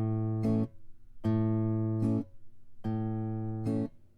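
Guitar fingerpicking an A chord: the thumb plucks the open A string and the fingers pluck the D, G and B strings together. Each chord rings for about a second and ends in a short slap as the plucking hand mutes the strings, cutting the sound off. This happens three times, about every second and a half.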